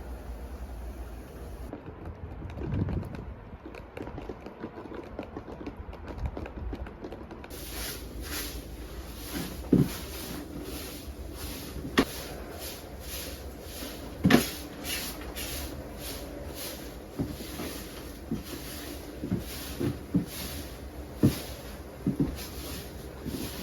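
Irregular knocks and clunks, a dozen or so short hard hits with the sharpest near the middle, over a steady hiss.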